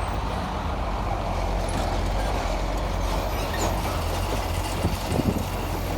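Heavy diesel construction machinery engine running steadily, with a few short knocks about five seconds in.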